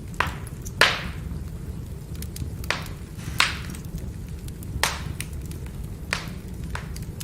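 Firewood burning and crackling: about seven sharp pops, the loudest about a second in, among many fainter snaps, over a steady low rumble of the fire.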